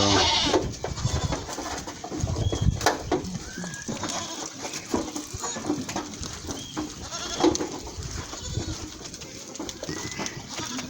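Goats bleating now and then, among scattered knocks and rustles.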